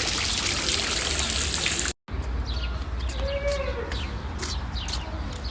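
Running, trickling water for about two seconds, then, after a sudden cut, a mix of birds chirping and calling with short, rising and falling notes.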